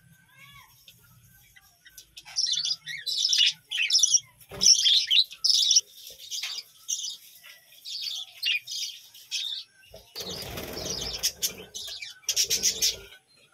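A flock of budgerigars chirping and warbling in quick, overlapping calls, with a flurry of wing flapping about ten seconds in and another short one near the end.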